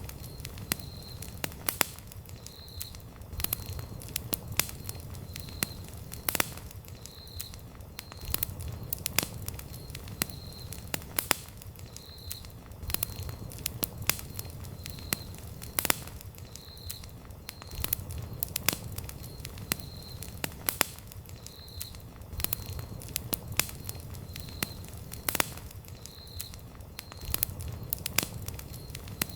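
Wood campfire crackling, with frequent sharp irregular pops and snaps over a low, steady rumble of the flames.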